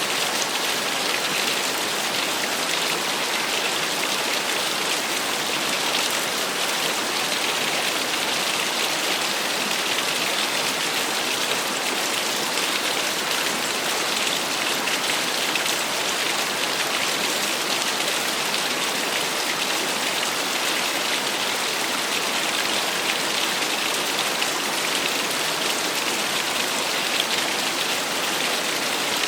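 Small waterfall splashing, an even rushing hiss of falling water that holds steady throughout.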